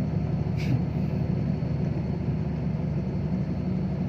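Six-wheel dump truck's diesel engine running steadily with a low drone.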